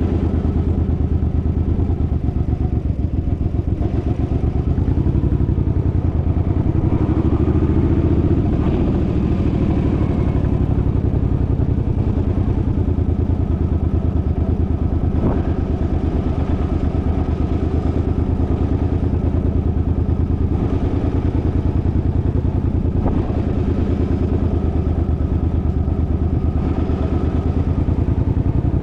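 Suzuki's engine running steadily under way, with a rapid even pulsing. It swells a little about eight seconds in, and there is a single sharp click around the middle.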